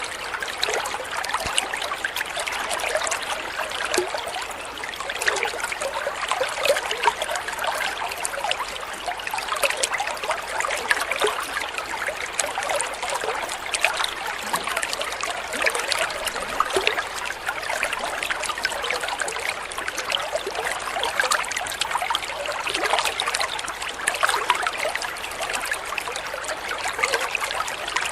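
Water trickling and splashing steadily over stones, like a small stream or fountain, with a bright, splattering texture.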